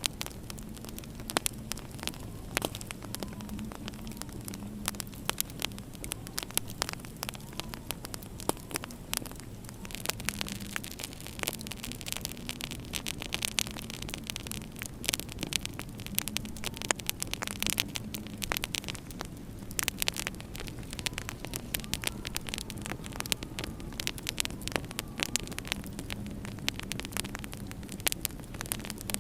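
Wood fire crackling in a fireplace with frequent sharp pops, over a low, wavering howl of winter wind.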